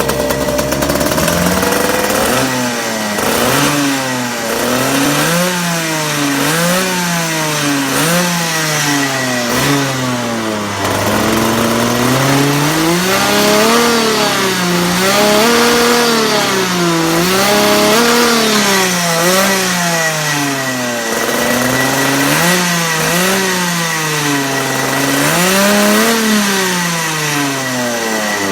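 Rotax Max 125cc single-cylinder two-stroke kart engine revving up and down over and over. Its pitch rises and falls about once a second at first, then in slower, longer swells.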